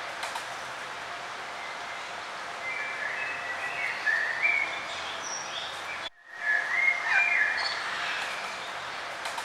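Wild songbirds chirping in short phrases over a steady outdoor hiss, with a sudden brief dropout about six seconds in, like an edit or loop splice.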